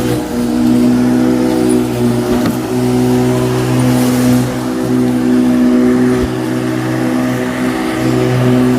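Motor of a garden power tool running steadily at one even pitch.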